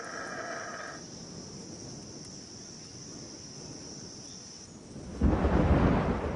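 Rainforest ambience with a steady high insect drone and an animal call that stops about a second in, then a sudden loud rumble of thunder about five seconds in.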